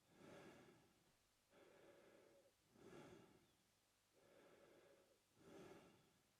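A man breathing slowly and evenly through his mouth, faint. Each breath is a louder, hissier stroke followed by a softer one, about one full breath every two and a half seconds.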